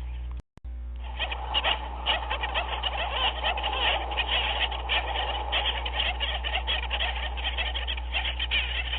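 A dense chorus of many overlapping short animal calls over a steady low hum. The sound cuts out completely for a fraction of a second about half a second in, a seam in a repeating loop.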